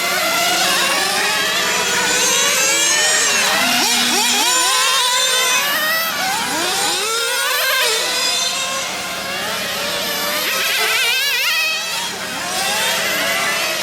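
Several small nitro engines of radio-controlled GT cars running at once, their high-pitched whine repeatedly rising and falling as they rev up and back off around a track.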